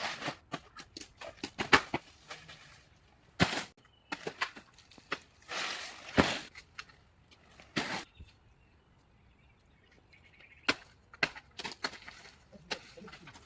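Irregular sharp chopping strikes of a blade cutting into wood, unevenly spaced and of varying strength, with brief rustling between some of them and a quieter stretch of a couple of seconds near the end.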